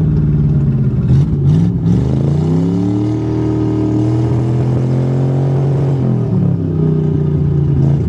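Pontiac's engine, started cold without a choke, running at a fast idle; about two and a half seconds in it is revved up, held for a few seconds, then drops back to idle. A few sharp clicks sound a little after one second.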